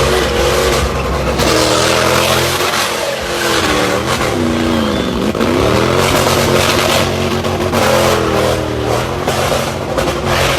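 Car engine revving hard over a steady rush of noise. The engine pitch drops sharply and climbs back about halfway through, then swells and falls again near the end.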